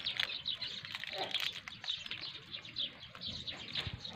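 Small birds chirping: many short, high chirps overlapping without a break.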